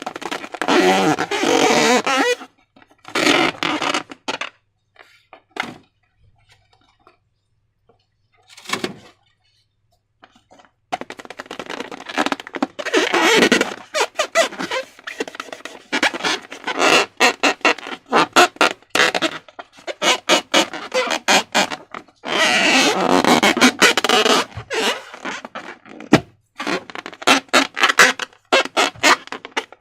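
Slime and transparent balloons being handled up close: runs of rapid sticky clicks and longer noisy rubbing stretches, with a mostly quiet gap of several seconds near the start.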